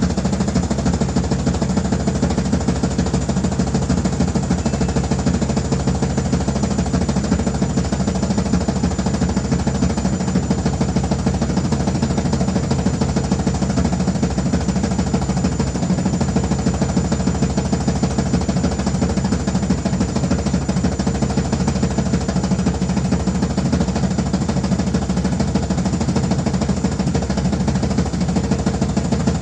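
Washing machine running loudly and steadily, with a fast, continuous rattle over a steady hum.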